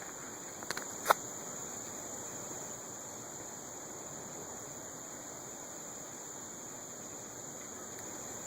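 Steady high-pitched hiss, with two faint clicks about a second in.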